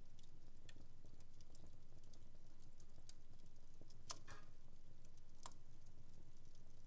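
Wood fire in a home fireplace crackling: scattered small pops, with two louder snaps about four and five and a half seconds in, over a low steady hum.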